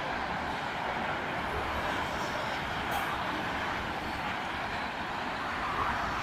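Slow-moving motorway traffic with lorries passing: a steady mix of engine rumble and tyre noise.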